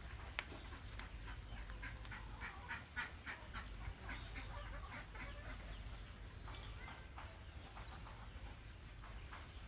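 Chickens clucking in a run of short, rapid clucks that fades out after a few seconds, with a couple of sharp clicks in the first second.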